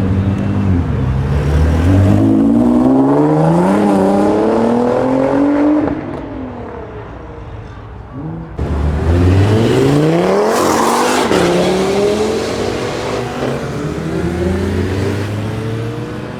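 Two performance cars accelerating hard one after the other. Each engine note climbs and drops back at the upshifts, and the second car gets loudest about halfway through as it passes close.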